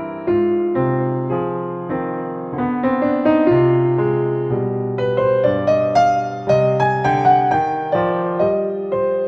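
Soft solo piano music: a slow, gentle melody over sustained chords, notes struck and left to ring and fade.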